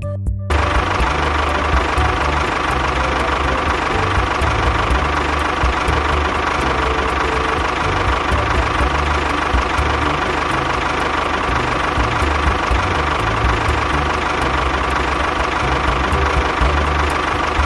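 An engine running steadily, a low uneven chugging with a constant high whine over it. It cuts in abruptly about half a second in.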